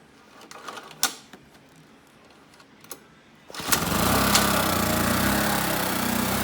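Honda generator's small engine starting: a few clicks and knocks, then about three and a half seconds in the engine catches and runs steadily.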